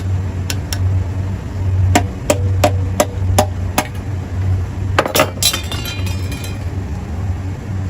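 Metal parts being worked by hand during a reciprocating compressor overhaul: a run of light, sharp metallic taps about three a second, then a short clinking rattle with a brief ring about five seconds in, over a steady low hum.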